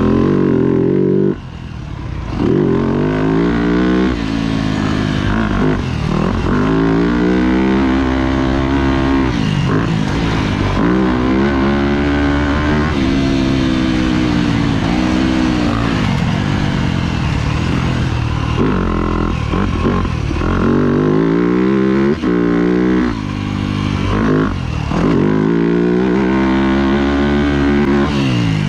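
Dirt bike engine being ridden hard, revving up and falling back again and again, each rise ending as the throttle closes. The engine drops out briefly about a second and a half in.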